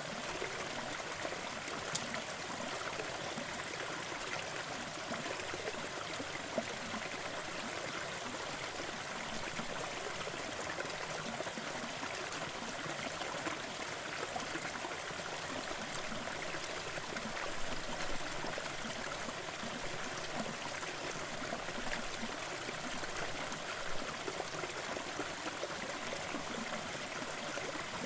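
Waterfall: steady rushing and splashing of falling water, with a few small splashes standing out now and then.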